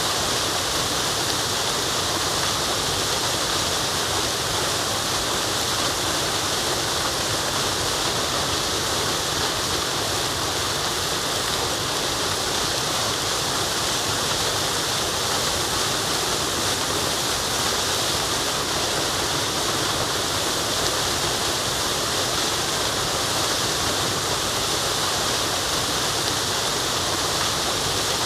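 Waterfall running steadily: an even, unbroken rush of falling water, heavy in the hiss and without any change.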